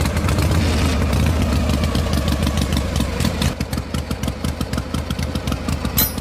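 Small diesel engine running, its firing heard as a fast, regular knock; the strokes become more widely spaced in the second half.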